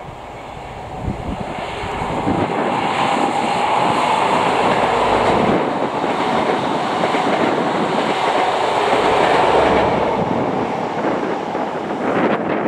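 ScotRail High Speed Train, class 43 diesel power cars at each end, passing close at speed. Engine and wheel noise rises over the first few seconds as it approaches, holds as a steady rush while the coaches go by, then eases a little near the end.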